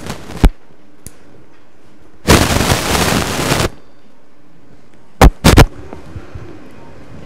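Arthroscopic shaver (Predator blade) trimming a torn meniscus in bursts: a loud noisy burst of about a second and a half a little over two seconds in, with shorter sharp bursts near the start and about five seconds in.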